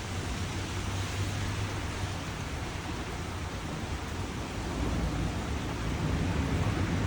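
Steady rain falling, an even hiss, with a low rumble underneath that swells a little toward the end.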